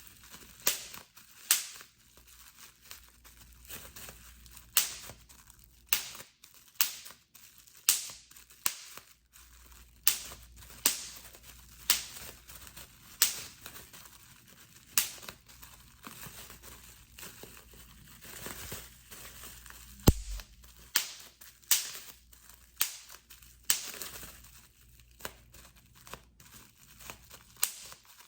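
Plastic bubble wrap being popped by hand: sharp pops at irregular spacing, about one or two a second, with the plastic crinkling between them. One pop about two-thirds of the way through is louder than the rest.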